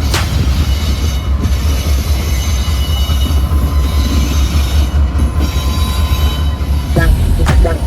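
Train rolling past, with a loud, steady rumble and a thin, steady wheel squeal over it.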